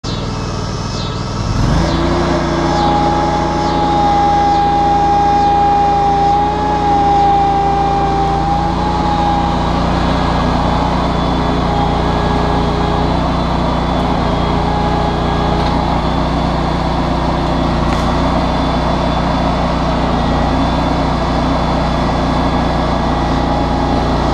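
John Deere X700-series garden tractor engine starting up to speed about a second and a half in, then running steadily. A steady high whine sits over it for several seconds after it speeds up.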